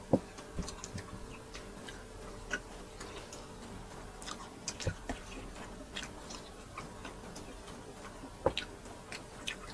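Eating sounds of grilled chicken being pulled apart by hand and chewed: scattered small wet clicks and smacks, with a sharper knock just after the start and a few softer ones later.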